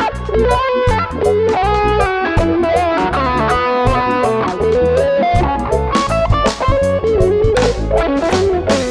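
Electric guitar solo played live over a reggae band's bass and drums, the lead line moving through held and sliding notes.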